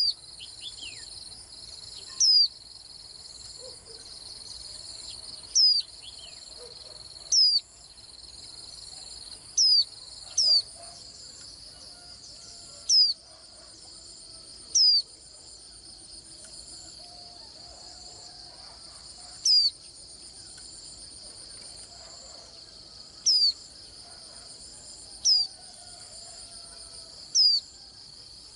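White-eye giving single sharp, high call notes that fall in pitch, about a dozen at uneven intervals, over a steady high trill of insects.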